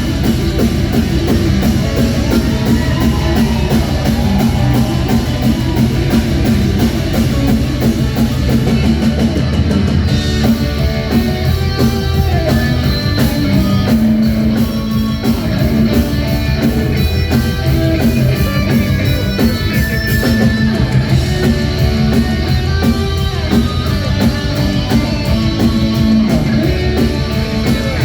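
Live heavy metal band playing an instrumental passage: guitars and drum kit, loud and continuous, with no vocals.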